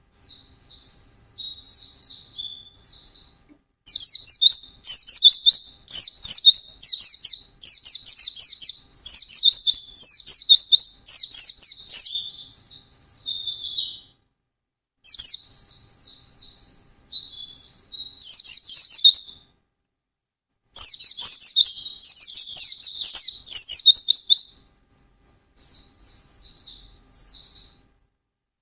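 White-eye (pleci) singing a fast, high twittering song of quick downward-sweeping notes. The song comes in long runs broken by a few brief pauses.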